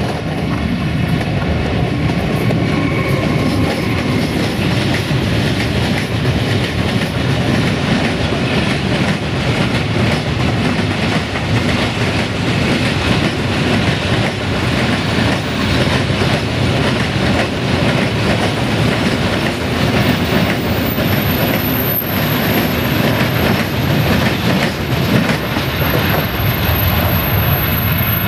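A freight train hauled by a Siemens EuroSprinter ES64 F4 electric locomotive passing close by at speed: a loud, continuous rumble of wagon wheels with rapid clickety-clack over the rail joints. A thin high whine joins in about three quarters of the way through.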